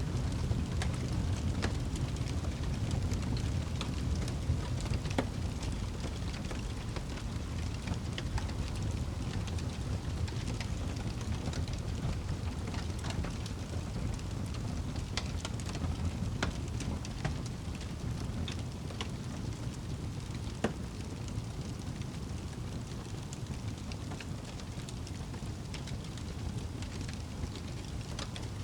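Wood fire burning in a fireplace: frequent crackles and pops over a steady low rumble of the flames.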